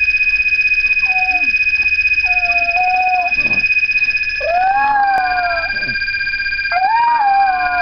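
A dog howling along with a phone's electronic ringtone, which sounds as a steady high beeping tone that changes pitch about five seconds in. The dog's howls start short and level and become long rising-and-falling howls about four and a half and near seven seconds in.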